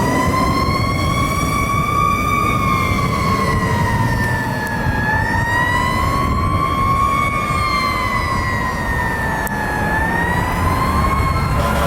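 Fire engine siren sounding a slow wail: one pitched tone rising and falling roughly every five seconds, over the low rumble of the truck's engine.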